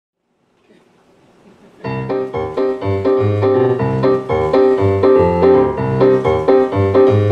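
Piano intro to a song: repeated rhythmic chords that start abruptly about two seconds in, after a moment of faint room noise.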